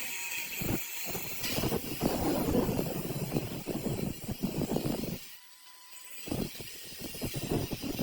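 Irregular crackling noise in two spells, the first stopping abruptly about five seconds in and the second starting again about a second later; a thin steady high tone is heard in the break.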